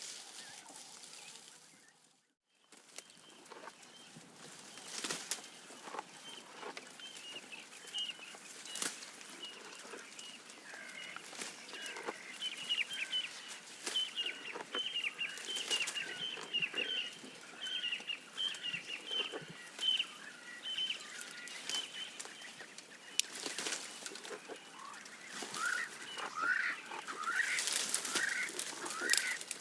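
Birds calling over scattered clicks and rustles: a long run of rapid short chirps in the middle, and repeated swooping calls in the middle and again near the end. The sound drops out briefly about two seconds in.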